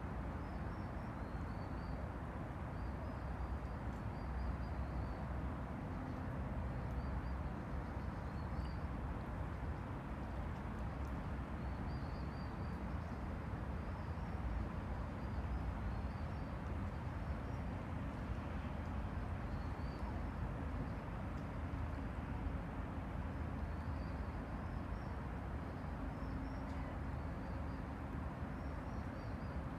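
Steady low wash of river water lapping against the bank, mixed with a constant low rumble of distant city traffic, with small high bird chirps repeating throughout.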